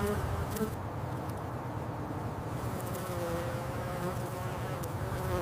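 A bee buzzing steadily.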